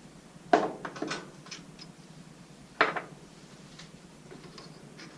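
Hard objects knocking and clicking as tools and parts are handled at the workbench: a sharp knock about half a second in followed by a few lighter clicks, and a second sharp knock near the three-second mark.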